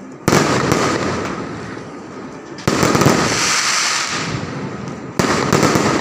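Fireworks going off overhead: three loud bangs about two and a half seconds apart, each dying away over a couple of seconds.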